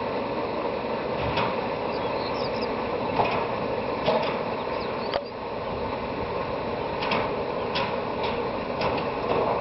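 Steady mechanical running noise with irregular clicks and knocks over it, from machinery at work while a silo is unloaded.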